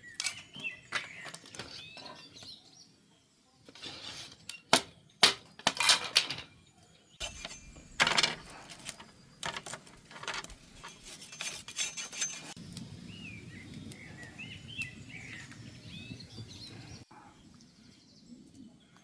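Irregular sharp clinks and knocks over the first dozen seconds, with birds chirping near the start and again later.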